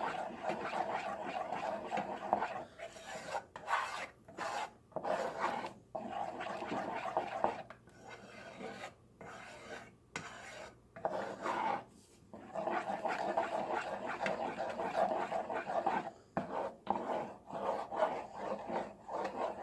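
A spoon scraping and stirring around the bottom of a pan of melting Crisco and peanut butter, in stretches of rasping strokes broken by short pauses.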